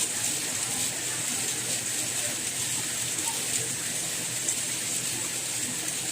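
Steady rain, a continuous hiss with faint scattered patter.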